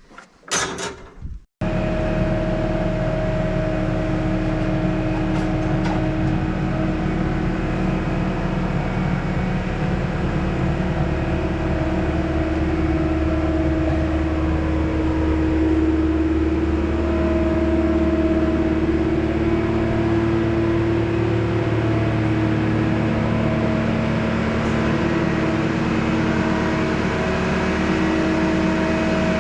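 A machine running steadily, a loud even hum with a couple of held tones that waver slightly. It cuts in abruptly about a second and a half in.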